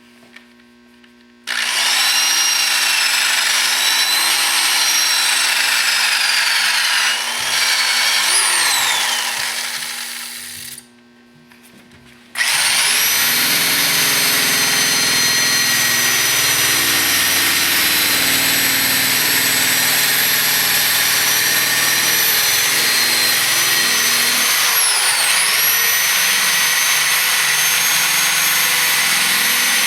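A high-speed electric power tool runs with a steady high whine while polishing stainless steel car trim. Its pitch sags briefly when pressed into the work. It stops for about a second and a half, then starts again and sags once more near the end.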